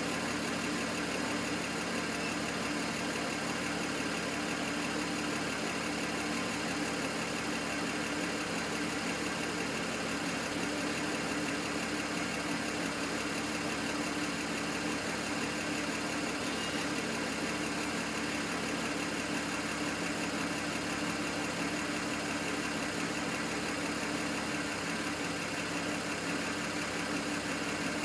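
BMW 135i's N54 twin-turbo inline-six idling steadily, with the misfire at idle that the owner is logging.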